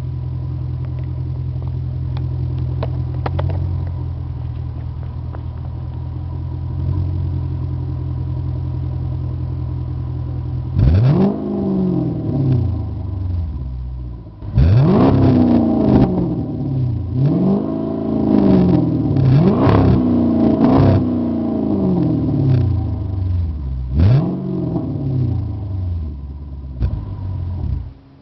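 2006 Dodge Charger's Hemi V8 exhaust, with its large factory muffler removed and Flowmaster mufflers fitted, idling with a steady deep rumble for about ten seconds, then revved sharply in a string of quick blips, each rising and dropping back to idle.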